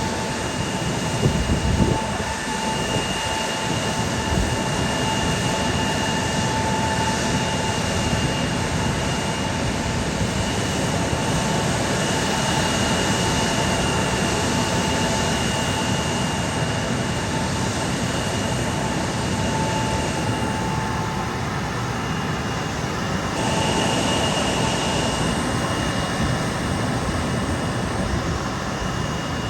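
Aircraft turbine engines running steadily, a rushing noise with a steady high whine.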